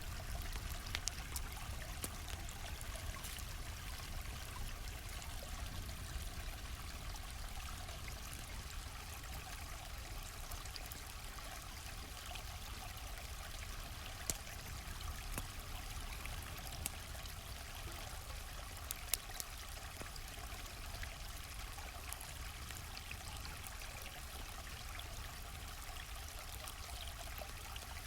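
A stream flowing steadily, with scattered sharp crackles and pops from a campfire over it.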